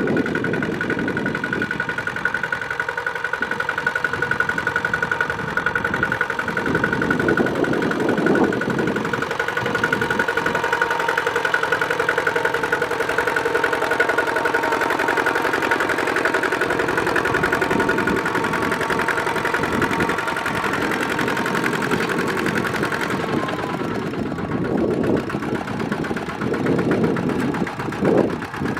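Small Kubota tractor's engine running steadily while plowing, a continuous mechanical drone with rapid, even firing pulses.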